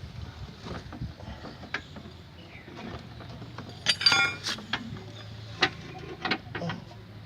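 Metal clutch parts and tools clinking and knocking as they are handled for fitting the clutch plate, with a cluster of ringing clinks about four seconds in and a few sharper knocks near the end.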